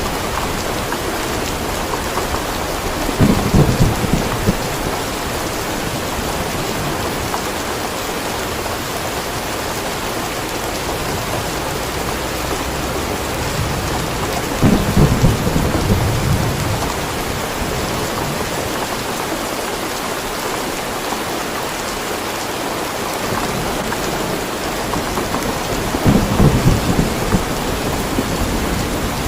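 Steady rain falling, with three low rumbles of thunder: one a few seconds in, one about halfway, and one near the end.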